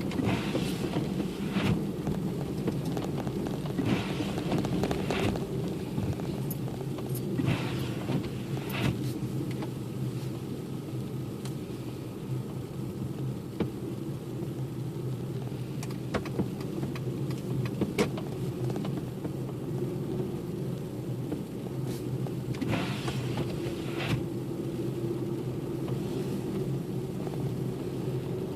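A car driving along, its engine and road noise giving a steady low hum. Short swishing sounds come in pairs about a second apart, several times.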